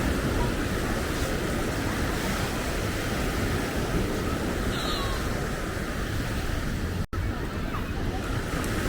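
Ocean surf on the beach with wind on the microphone, a steady rushing noise, broken by a split-second dropout about seven seconds in.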